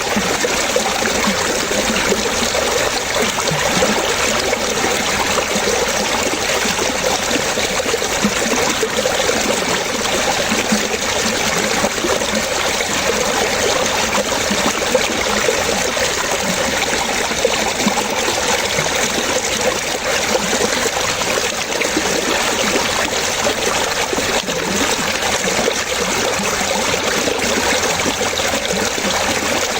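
Running water trickling and splashing steadily, with a constant fine bubbling.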